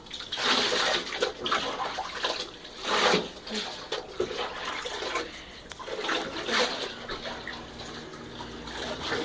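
Rinse water splashing in a bathtub while a soaped dog is rinsed off, in several louder bursts, near the start, about three seconds in and about six and a half seconds in, then quieter.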